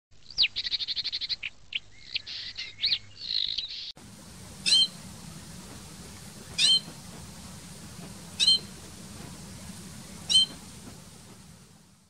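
Songbird calls for the first few seconds, including a fast trill. Then a Lesser Whitethroat nestling calls four times, a short sharp note each time, about two seconds apart, over steady hiss.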